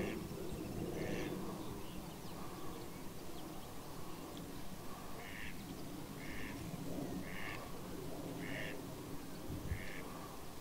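A bird calling in a steady series of short harsh calls, about one a second, with a pause of a few seconds after the first couple.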